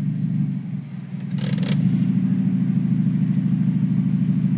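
Mazda 323's engine running with no mufflers on the exhaust: an uneven low rumble that settles into a steady, even drone from about two seconds in. A brief clatter sounds about a second and a half in.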